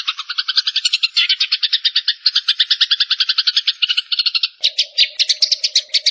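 Small songbird chattering in a fast, unbroken trill of sharp chirps, about a dozen a second, from a mixed bird-tutor recording of cililin, fighting house sparrows, bar-winged prinia and cucak cungkok.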